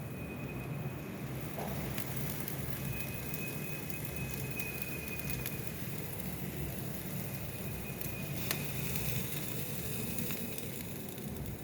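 Chicken kebab sizzling and crackling on a grill, a steady hiss with scattered sharp pops. A thin high tone comes and goes over it.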